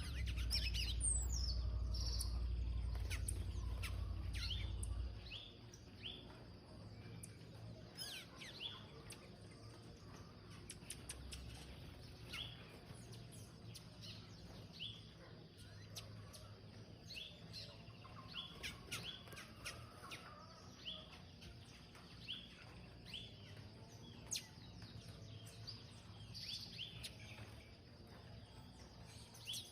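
Birds chirping: many short, high calls repeated irregularly throughout. A low rumble sits underneath for the first five seconds, then drops away.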